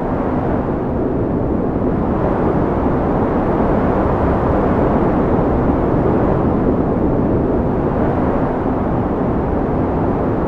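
Strong wind blowing steadily, a low rushing noise that swells a little in the middle.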